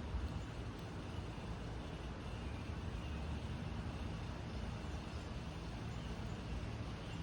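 Steady low rumble of outdoor background noise, like distant road traffic, with no distinct bird calls standing out.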